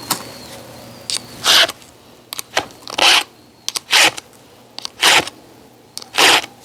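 Five short, loud scraping or rustling strokes about a second apart, with light clicks in between.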